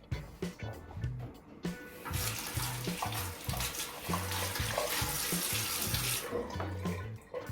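Kitchen tap running into the sink for about four seconds, starting about two seconds in and shutting off near the end. Background music with a steady bass beat plays throughout.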